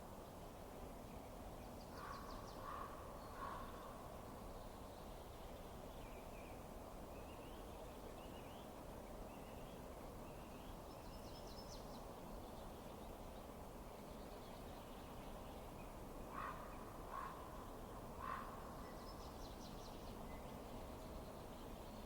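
Bird calls over a steady low hiss: two groups of three short harsh calls, one about two seconds in and one about sixteen seconds in, with fainter high chirps between them.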